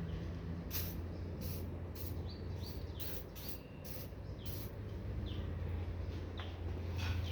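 Scattered sharp clicks and short high chirps over a steady low hum.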